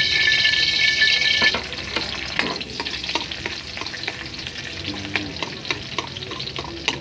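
Minced garlic sizzling in hot oil in a wok, stirred with a metal ladle that clicks and scrapes against the pan many times. A steady high whine sounds over it until about a second and a half in, then stops.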